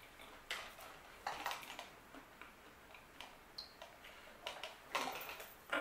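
Faint scattered clicks and crunches of a crisp sprinkle cookie being chewed. In the last couple of seconds come the sounds of a plastic water bottle being handled and drunk from.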